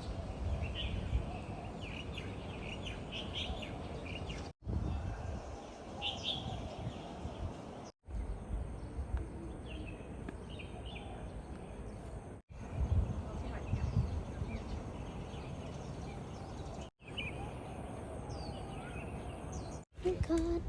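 Small birds chirping over steady outdoor background noise with a low rumble, broken by abrupt cuts every few seconds; in two stretches a steady high-pitched whine runs under it.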